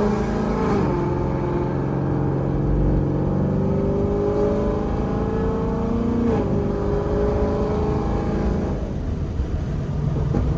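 Ford Mustang GT's V8, fitted with Stainless Power headers and a Borla exhaust, pulling hard under acceleration: the exhaust note climbs steadily in pitch, drops with an upshift about half a second in and again about six seconds in, then climbs once more before easing off into a rougher burble near the end.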